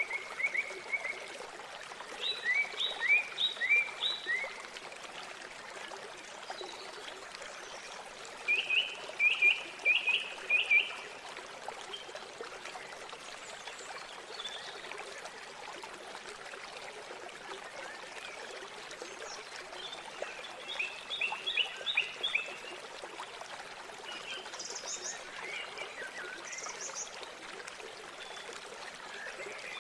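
River water flowing steadily, with a bird singing over it in short phrases of four or five quick, high notes, three times, and a few fainter higher calls near the end.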